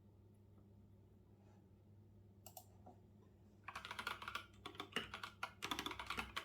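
Typing on a computer keyboard: a couple of isolated keystrokes about two and a half seconds in, then a quick run of rapid keystrokes from just before four seconds in.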